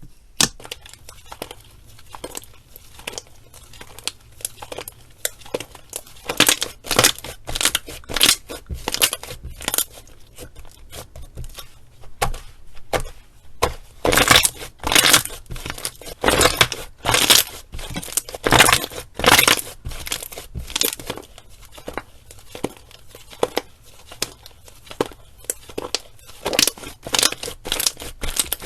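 Slime being handled and pressed, giving irregular crackling, crunching pops that come thick and fast in the middle and thin out towards the end.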